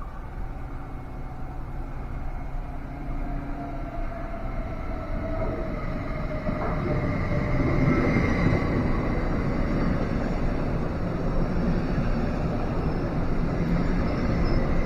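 Electric train approaching and running through the station, getting steadily louder, with the rumble of the train building from about six seconds in and several steady high tones over it.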